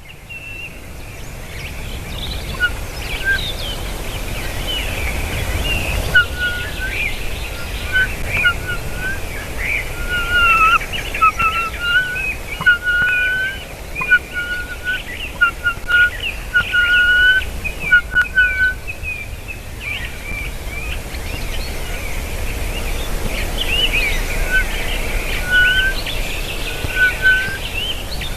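Birds calling: a constant busy chatter of high chirps, with a series of short, clear whistled notes repeated through the middle and again near the end.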